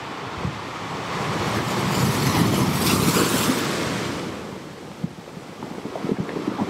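A wash of ocean-wave sound swells up and recedes over about three seconds. After it fade, light ticks and scratches come from a fineliner pen and plastic ruler on drawing paper.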